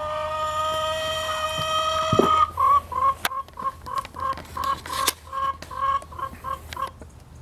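A chicken gives one long, held squawk, which breaks off sharply about two seconds in, then a rapid run of short clucks, about three a second, that stops near the end. This is typical of chickens squabbling while establishing dominance.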